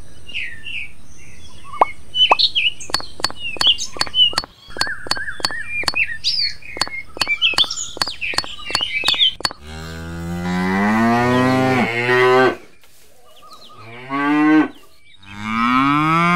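Birds chirping with a run of sharp clicks, then a cow mooing three times from about halfway through: long, low moos that rise and fall in pitch.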